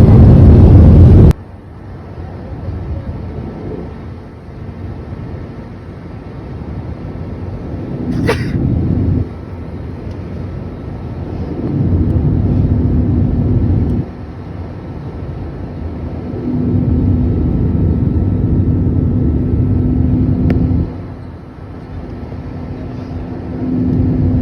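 Airliner cabin noise on the approach to landing: a steady low engine and airflow rush with a faint steady hum, its loudness jumping up and down abruptly every few seconds. A very loud stretch at the start cuts off suddenly about a second in, and a brief sharp click comes about eight seconds in.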